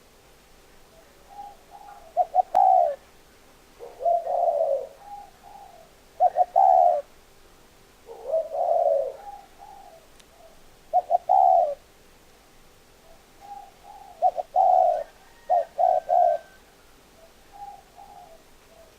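Spotted dove cooing: a series of low, hooting song phrases repeated every two to three seconds, the louder ones with a quick stuttered start, between fainter, softer coos.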